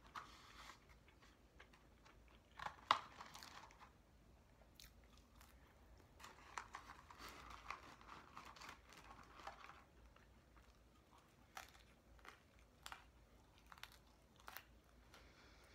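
Faint mouth sounds of someone eating McDonald's food: chewing and crunching with scattered small clicks, and a longer stretch of rustling about six to nine seconds in as a paper wrapper is handled.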